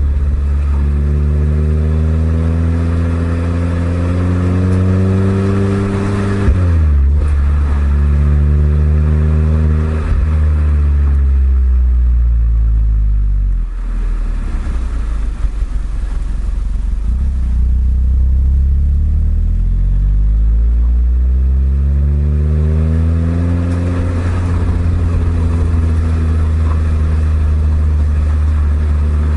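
Exhaust note of a Suzuki Swift Sport ZC32S's 1.6-litre four-cylinder through an eight-year-old Kakimoto aftermarket muffler, under way. The revs climb under acceleration and drop sharply about six seconds in, as at an upshift, then climb again. They fall away as the car slows, pick up again, and settle to a steady cruise.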